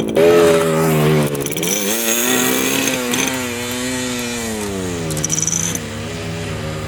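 1975 Yamaha RD200's two-stroke twin engine running under throttle, its pitch dropping and rising several times as the revs change.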